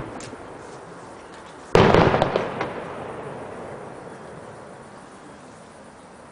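Aerial fireworks shell bursting with one loud bang about two seconds in, followed by a few sharp crackles and a slowly fading rumble.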